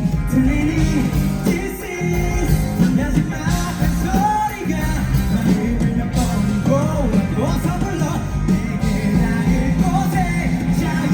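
Live pop-rock band playing a song, with a steady band accompaniment under a sung melody.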